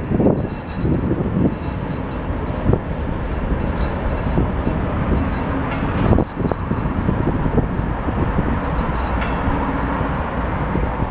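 Wagons of a works train carrying a rail crane and track equipment rolling slowly over a steel railway bridge: a steady rumble with irregular wheel knocks and clanks, one sharp clank about six seconds in and a brief metallic ring a little after nine seconds.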